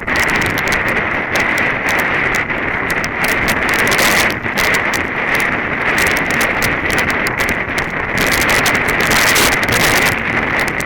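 Strong wind buffeting the microphone of a runner's camera, a loud steady rush broken by many short knocks.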